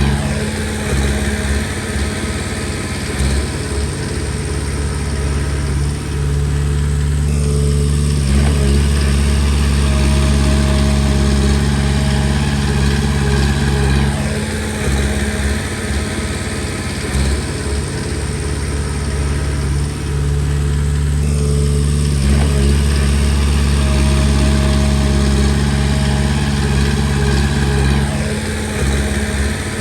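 Komatsu D20P bulldozer's diesel engine working steadily. Twice its note briefly drops and then picks up again, in a repeating cycle of about fourteen seconds.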